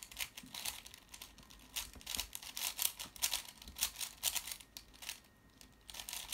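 Plastic 3x3 Rubik's cube being turned fast by hand: rapid runs of clicking and clacking as the layers snap round, with a brief pause about five seconds in.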